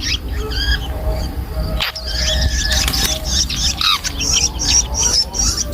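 Long-tailed shrike chicks calling: many short, high chirps that become a fast, repeated begging series in the second half, over a steady low hum.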